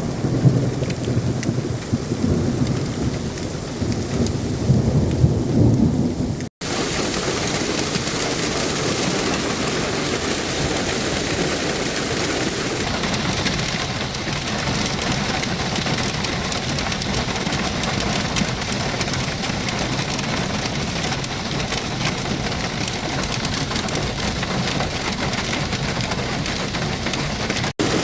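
Thunder rumbling low over heavy rain for the first six seconds or so. Then, after a brief break, a steady, dense downpour of heavy rain.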